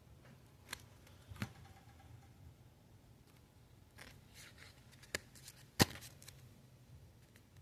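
Scattered light clicks, taps and short rustles of Pokémon trading cards and booster-pack foil being handled, with one sharper tap about three-quarters of the way through, over a faint low hum.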